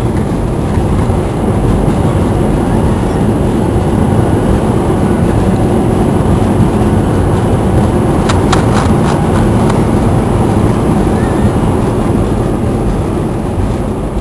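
Loud, steady rumble inside the cabin of an Airbus A320, with a short run of rattling clicks about eight seconds in.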